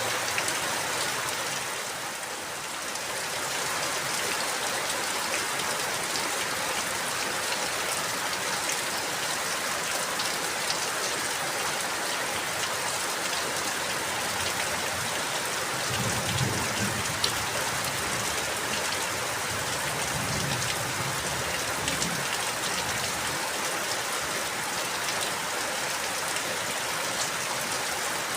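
Steady rain falling, an even hiss with scattered drops ticking sharply. It dips briefly in loudness about two seconds in, and a low rumble sits under it for several seconds past the middle.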